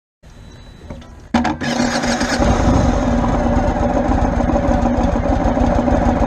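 Motorcycle engine starting: quiet at first, then it catches with a sudden jump in loudness about a second and a half in and settles into a steady idle.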